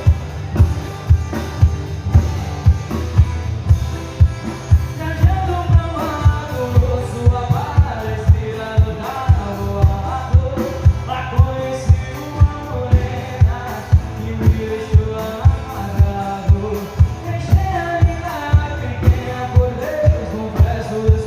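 Live sertanejo song: a singer over a band, with a heavy, steady kick-drum beat of about two hits a second.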